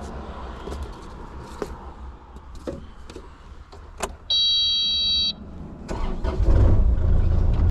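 Heavy excavation machinery runs with a steady low rumble and scattered clicks and knocks. About halfway through there is one electronic beep, about a second long. The low rumble grows louder over the last two seconds.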